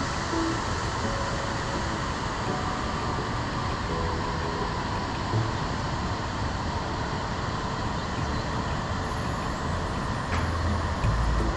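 Steady rushing roar of the Krka River's waterfalls and cascades, an even wash of water noise with no break.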